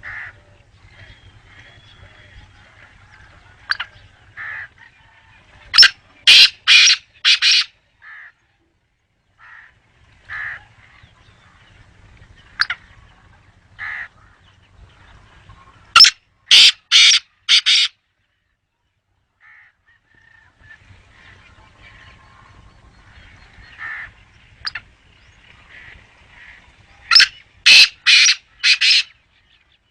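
Black francolin calling: three loud, harsh phrases of about five notes each, roughly ten seconds apart, with fainter short bird calls between them.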